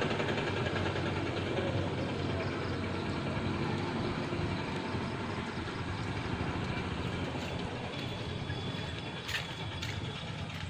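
An engine running steadily with an even low beat, slowly growing fainter. Two short clicks come near the end.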